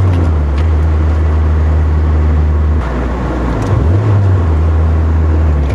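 Nissan 240SX's 2.4-litre KA24 four-cylinder engine pulling the car along on a drive, a steady drone whose pitch drops about three seconds in and climbs again about a second later. It is running without popping after a new coolant temperature sensor was fitted to cure rich-running pops on a cold engine.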